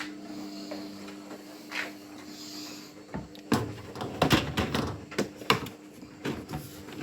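A steady low hum, then from about halfway through a busy run of sharp clicks and knocks as the washing machine's plastic parts are handled and opened.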